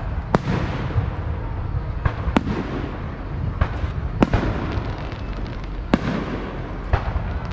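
Fireworks going off: about five sharp bangs a second or two apart, each trailing off in an echo, over a steady low background rumble.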